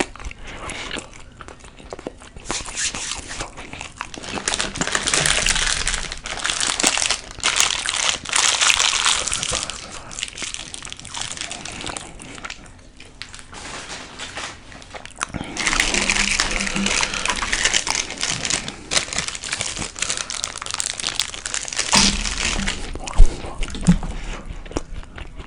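Close-miked crinkling of a burrito's plastic wrapper, in two long spells of several seconds each, with a few sharp clicks near the end.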